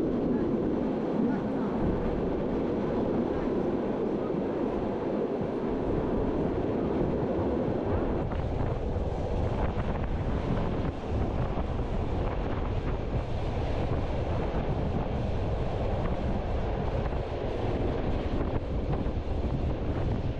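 Train running on its rails, heard from an open observation carriage with wind buffeting the microphone. About eight seconds in, the sound turns deeper.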